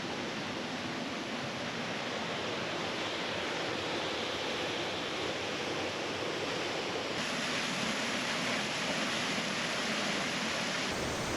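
Waterfall rushing, a steady full flow of falling water with no break.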